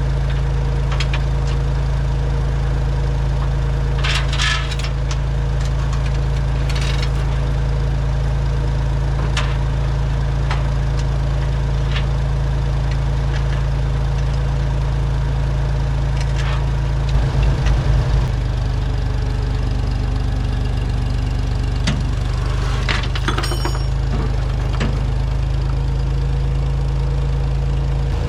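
A machine runs with a steady low drone, with a brief pulsing in it a little past halfway. Scattered clicks and knocks of metal handling sound over it.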